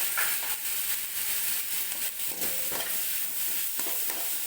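Onions and green chillies sizzling in oil in a kadai, with a steady hiss, while a spoon stirs them, scraping and knocking against the pan a few times.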